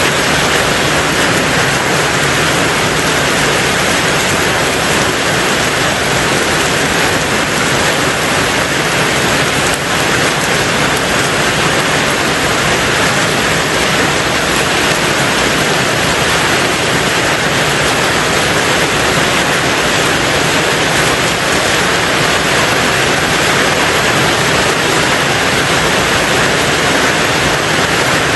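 Steady heavy rain drumming on a tin roof, a dense even hiss with no distinct drops or thunder.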